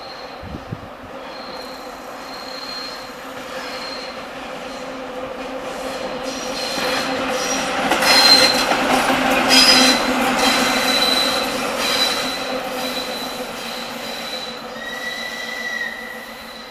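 ChME3 diesel shunting locomotive running light past: the steady drone of its diesel engine and the rumble of its wheels on the rails build to a peak about eight to ten seconds in, then fade. A thin, high-pitched wheel squeal runs through most of it, joined by a lower squealing tone near the end.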